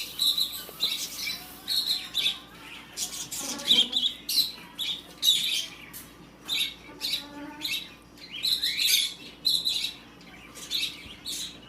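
Baby birds chirping and squawking during hand-feeding, in many short, high calls in quick succession with brief gaps.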